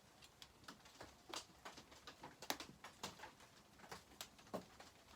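Faint, irregular clicks and taps of a small nut and metal parts being fiddled with by hand while trying to start the nut on a bolt.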